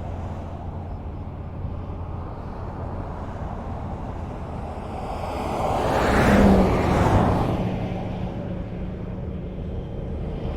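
Highway traffic: a steady rumble of tyres and engines, with one vehicle passing close about six seconds in, swelling and then fading, and another starting to build near the end.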